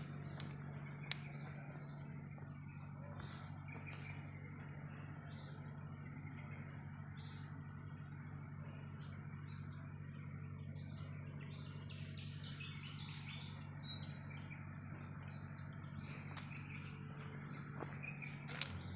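Birds chirping and calling in short high notes over a steady low hum, with a few sharp clicks.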